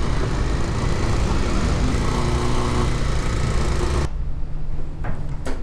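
Kawasaki dual-sport motorcycle engine running at low speed under wind noise on the microphone. About four seconds in the wind hiss stops abruptly, leaving the engine's low running note, with a couple of short clicks near the end.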